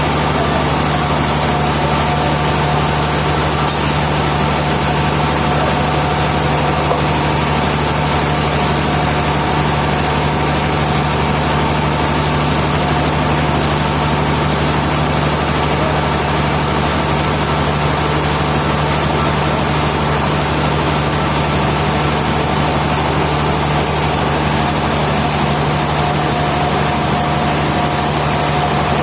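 Sawmill machinery running steadily: a loud, constant engine-like drone with a few held tones that never changes in pitch or pace.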